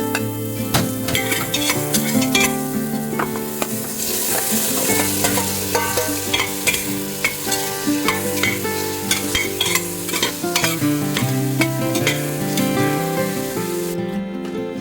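Food frying and sizzling in a pan, with a utensil stirring and clicking against it, over background music. The sizzle drops out briefly near the end.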